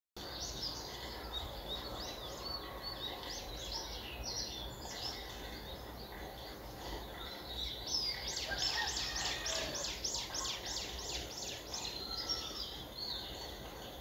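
Songbirds singing, with varied chirps throughout and a fast trill of repeated notes, about four a second, from about eight seconds in to about eleven and a half.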